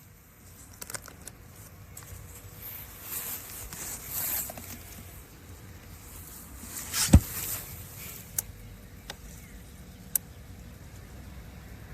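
Scattered clicks and rustling, with one loud knock about seven seconds in, over a low steady hum.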